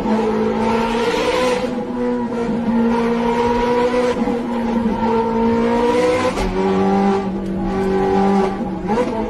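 Ferrari engine running hard at high revs, a steady high-pitched howl that wavers slightly and steps down a little about six seconds in.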